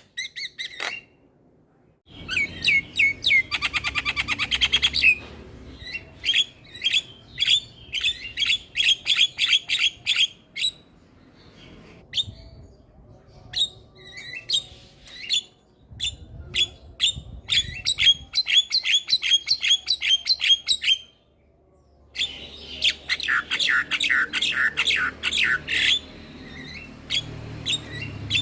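Javan myna (jalak kebo) singing: rapid runs of sharp, clicking and squawking notes in several bursts, with brief pauses between them.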